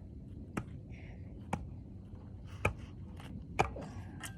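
Slow footsteps crunching on dry ground, five sharp steps about a second apart.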